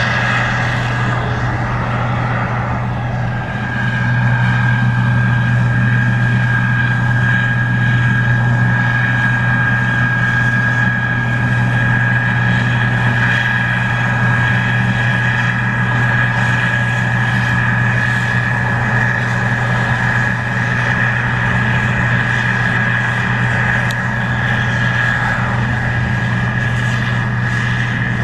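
Case IH 2144 Axial-Flow combine running steadily at work, a deep diesel hum under a steady high whine from the machine. The level dips briefly about three seconds in, then holds steady and a little louder.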